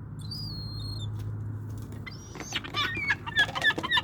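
Gulls squawking in a squabble over food: one thin high call near the start, then a rapid series of repeated, downward-sliding calls from about halfway, loudest near the end. A low steady hum runs underneath in the first half.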